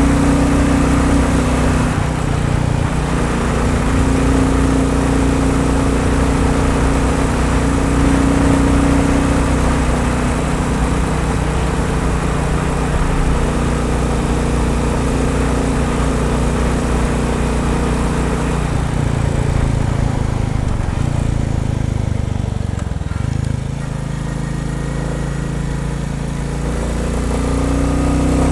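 Royal Enfield Bullet 350 single-cylinder engine running under load on the road, with a steady note for most of the time. About two-thirds of the way through the revs fall and the note drops lower, then rises again near the end as it pulls.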